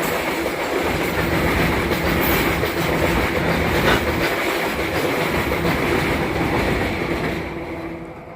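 Goods train rolling past, its wagon wheels clattering over the rail joints; the sound dies away near the end as the train moves off.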